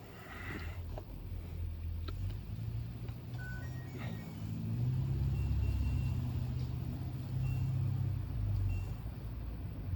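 Low, steady hum that grows louder about halfway through and eases near the end, with a few short high beeps now and then.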